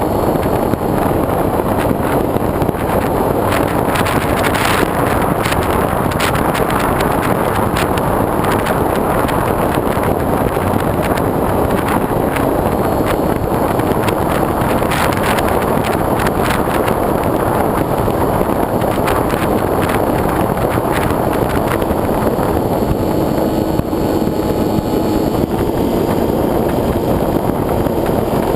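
Heavy wind rushing over a GoPro's microphone on the wing of a foam RC plane in flight, with a crackling buffeting and a faint steady motor-and-propeller hum whose tone shifts slightly in the last few seconds.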